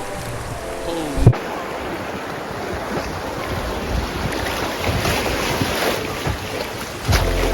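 Rushing river water with wind buffeting the microphone, broken by a sharp knock just over a second in.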